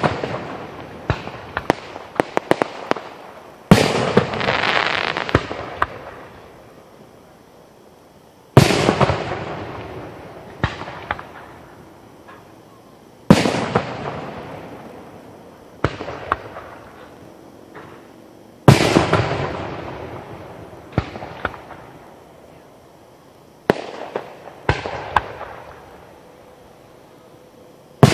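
Aerial firework shells bursting, a loud bang about every five seconds, each followed by an echoing rumble that fades over a few seconds. Smaller single cracks fall between the big bursts, with a run of rapid crackling near the start.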